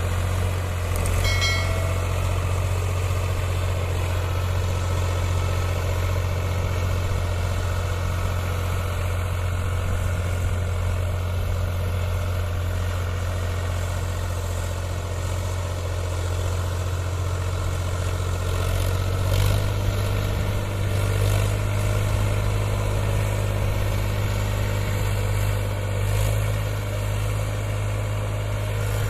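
Powertrac Euro 47 tractor's diesel engine running steadily, its note shifting slightly about two-thirds of the way through.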